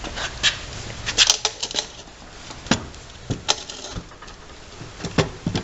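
Scattered light clicks and rattles of wiring and small plastic connectors being handled on a riding mower's engine, with a quick cluster a little over a second in and another near the end.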